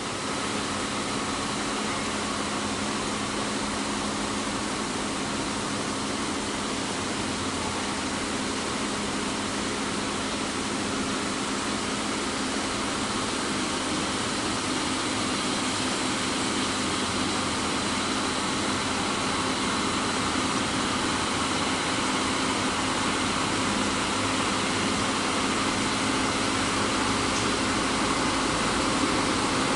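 Heavy truck engine running steadily under a wash of noise, slowly growing louder.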